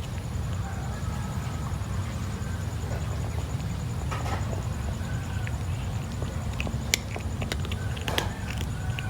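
Small wet clicks and smacks of a kitten eating, scattered through the second half, over a steady low rumble.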